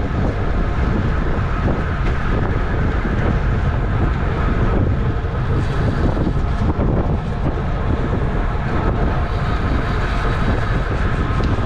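Loud, steady wind rushing over the microphone of a camera mounted on a racing bicycle moving at speed.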